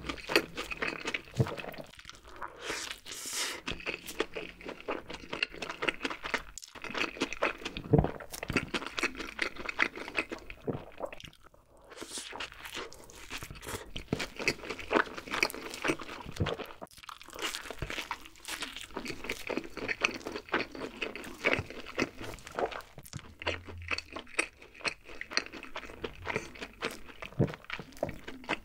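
Close-miked mouth sounds of a person biting into a burger and chewing it: a dense, irregular run of crunchy clicks and wet smacks. The sounds pause briefly about eleven seconds in.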